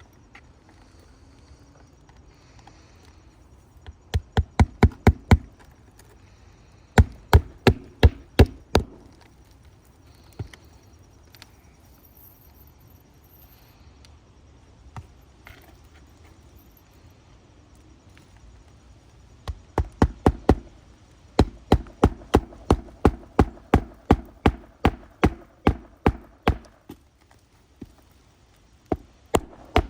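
Hand hammer driving nails into roof shingles: bursts of sharp, rapid strikes, a short run a few seconds in, another soon after, then a longer steady run of about three blows a second in the second half.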